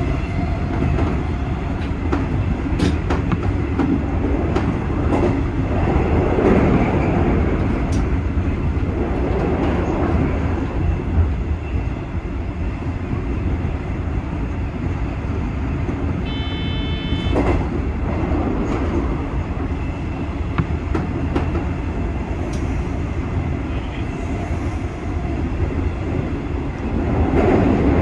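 JNR 201 series electric train running along the line: a steady rumble of wheels on rail with scattered clicks from rail joints. A brief high tone sounds about halfway through.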